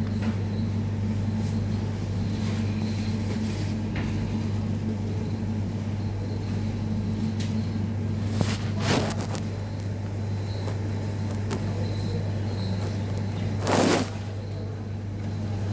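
Steady low hum throughout, with two short bursts of hiss about nine and fourteen seconds in, the second louder.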